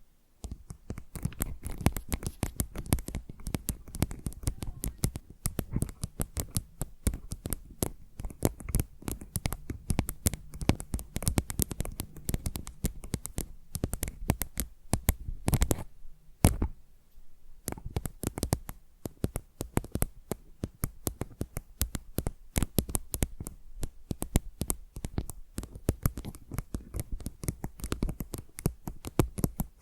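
Fingernails rapidly scratching and tapping on a tile, close to the microphone: a dense stream of quick clicks and scrapes, with a brief lull a little past halfway.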